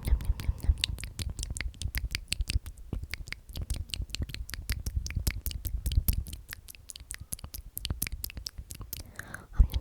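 Close-miked ASMR trigger sounds: a rapid run of crisp clicks and scratchy rustling, several a second, over soft low thumps.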